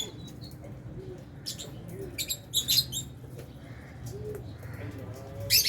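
Flock of lovebirds chirping: short, sharp, high-pitched calls in quick clusters, loudest about two and a half seconds in and again near the end.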